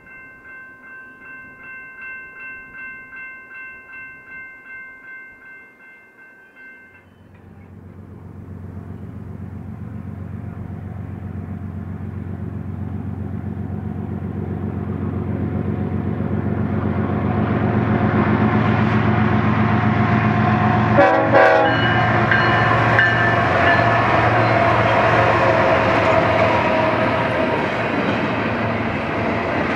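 Grade-crossing warning bell ringing in steady repeated strokes. It then gives way to an approaching BNSF diesel freight locomotive, its engine running and growing steadily louder as it nears. The freight cars then roll past with wheel and rail clatter, with one brief loud knock partway through.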